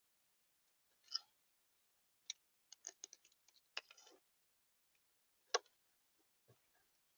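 Faint, irregular sharp taps and clicks at a bird feeder, as of birds pecking at seed and gripping the feeder, about a dozen over several seconds with the loudest about a second in and again past the middle.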